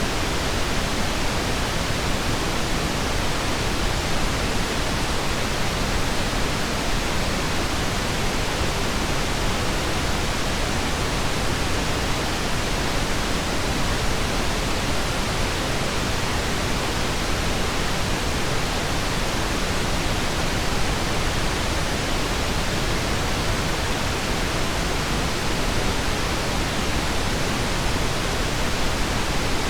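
Steady pink noise, an even hiss with a deep rushing quality, unchanging throughout.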